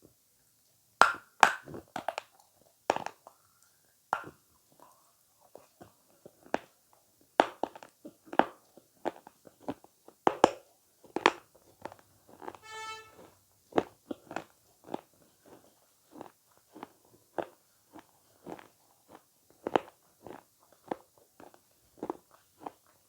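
Close-miked eating of avocado: irregular bites and chewing with many sharp, clicky mouth sounds, loudest in the first few seconds. A brief pitched sound lasting about a second comes about halfway through.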